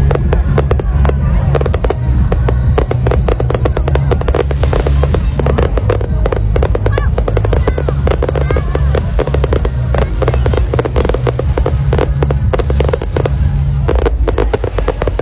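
Fireworks display: a dense, rapid crackling and popping of bursts over a heavy continuous low rumble.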